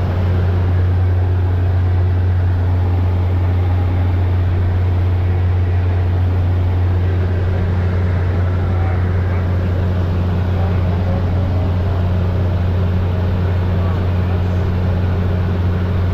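Aircraft engine droning steadily, a loud low hum that holds level without change.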